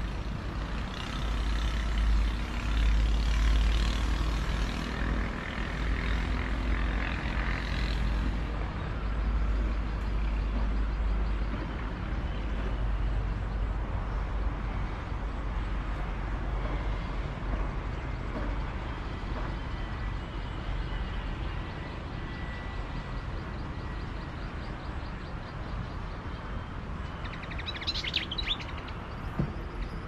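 A continuous low rumble, heaviest in the first dozen seconds, with a short burst of high bird chirps near the end as an adult bird lands at the nest.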